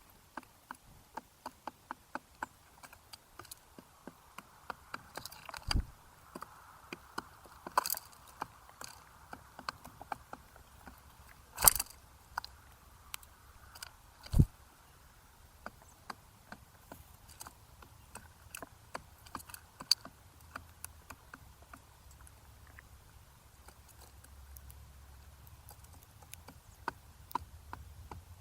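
Birds pecking and cracking seed at a feeder close to the microphone: a run of sharp, irregular taps and clicks, with a few louder knocks.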